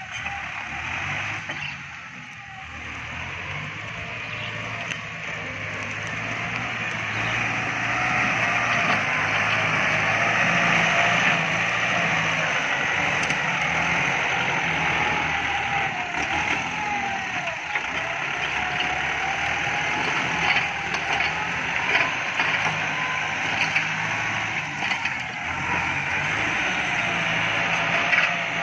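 Kubota MU5702 tractor's diesel engine running hard under load, growing louder over the first several seconds, with a wavering whine over the engine note and a few scattered sharp cracks.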